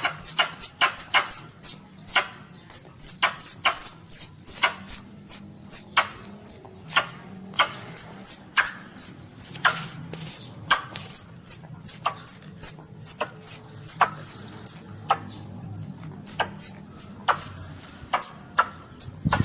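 Baby Asian palm civet calling: a rapid string of short, high, squeaky chirps that slide downward in pitch, about three a second, with a brief lull about fifteen seconds in.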